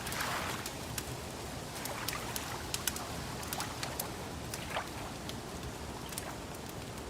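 Gentle lake water lapping in soft, irregular swells, with sparse sharp crackles and pops of a wood fire.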